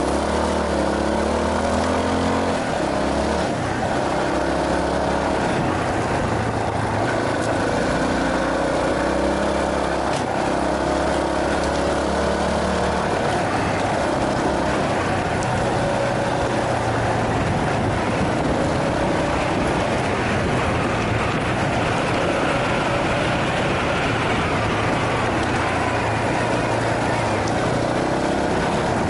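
Yamaha Serow 250's single-cylinder four-stroke engine running under way, its pitch stepping up and down with throttle and gear changes in the first half, then holding steadier, over a constant rush of wind and road noise.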